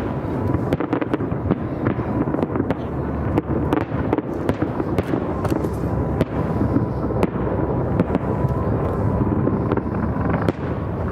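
Fireworks display going off over a river: many rapid sharp cracks and bangs over a continuous rumble of distant bursts.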